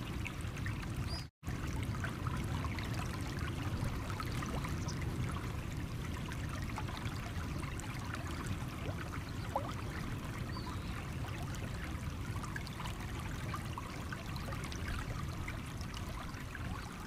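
Small stream running over stones: a steady babble with many small trickles and plinks. The sound cuts out completely for a fraction of a second just over a second in.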